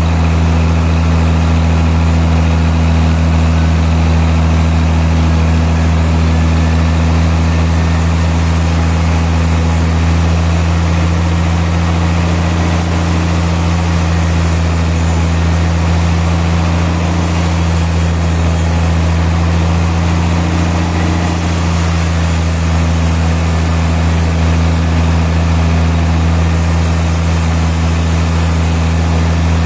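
Sawmill machinery running with a steady, unchanging low engine drone.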